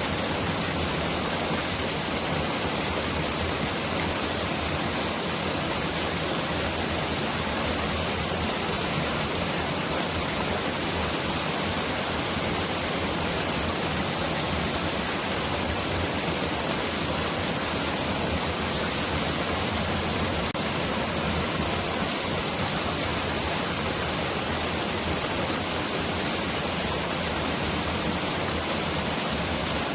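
Mountain valley stream rushing in a steady, even hiss that sounds like a heavy downpour.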